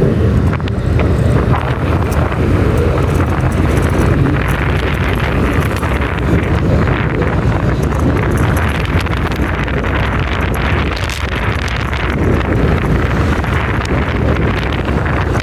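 Motorcycle running steadily while riding, with wind buffeting the microphone.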